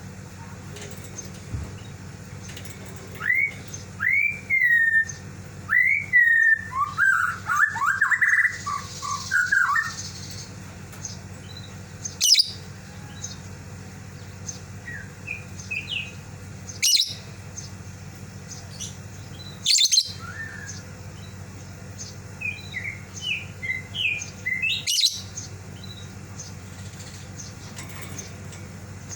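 Lovebird making sharp chirps and short rising-and-falling calls in bursts, calling to its companion that has left the cage. A steady low hum runs underneath.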